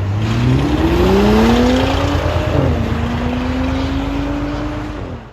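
2019 Audi SQ5's 3.0-litre turbocharged V6 with the muffler and rear resonators cut off, only the middle resonator left, accelerating hard. The exhaust note rises in pitch, drops sharply at an upshift about two and a half seconds in, then climbs again more slowly in the next gear.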